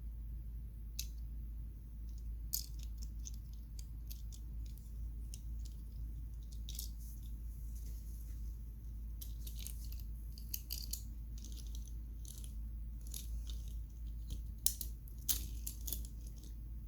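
Toy cars and trucks being handled and played with: scattered small clicks and taps, busier in the second half, over a steady low hum.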